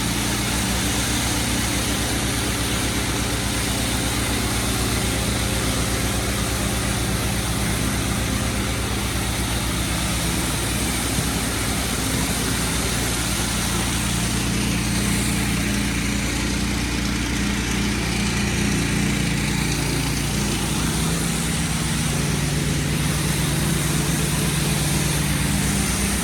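Gas-powered pressure washer engine running steadily, with the hiss of its high-pressure water spray.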